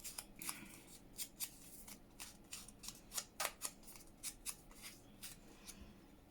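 Scissors snipping, a quick run of faint, sharp snips at about three or four a second, stopping shortly before the end.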